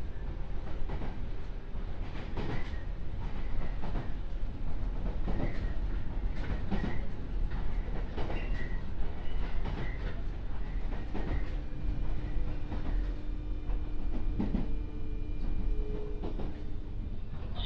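Interior of a JR 201-series electric commuter train running: a steady rumble with the wheels clicking over rail joints at irregular intervals. A faint steady hum joins about two-thirds of the way through.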